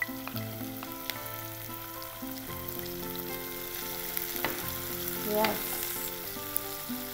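Minced chicken frying in oil with onions in a nonstick pan, sizzling steadily as it is stirred with a wooden spatula. A few clicks and scrapes of the spatula against the pan, the loudest about five and a half seconds in.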